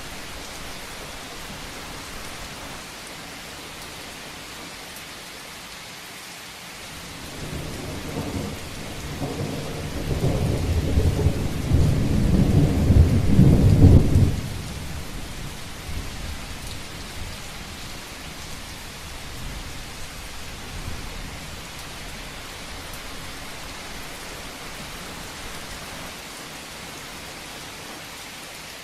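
Steady rain pattering on a rooftop, with a roll of thunder that builds from about a quarter of the way in, rumbles loudest about halfway through, then stops fairly suddenly.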